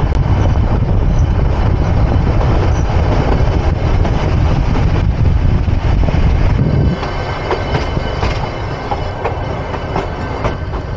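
Nilgiri Mountain Railway toy train running on the Ooty–Coonoor line: a loud low rumble of the coach and wheels on the rails for about the first seven seconds, then a quieter run with scattered sharp clicks.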